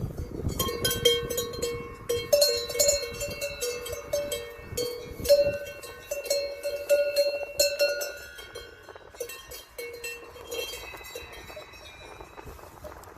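Several cowbells on cattle clanking irregularly, each bell ringing at its own pitch, thinning out over the last few seconds.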